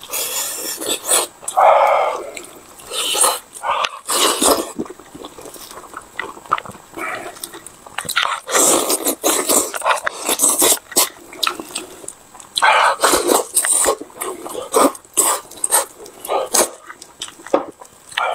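Close-up, open-mouthed chewing and lip-smacking on fatty braised pork skin and spicy cabbage: wet smacks, clicks and slurps in irregular bursts.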